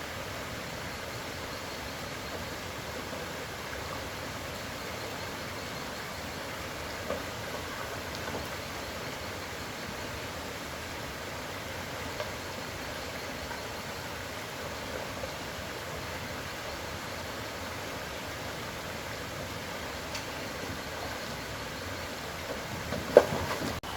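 Steady rushing background noise, with a few faint knocks and one sharp knock near the end.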